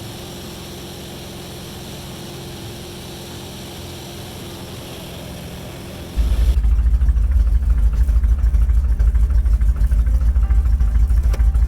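Light aircraft engine running steadily with a hiss, then about six seconds in the sound changes suddenly to a much louder, pulsing low rumble, as when the engine and wind come close on the microphone.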